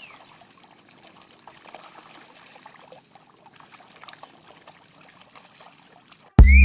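Faint trickling water with small scattered clicks, then loud electronic music cuts in suddenly just before the end.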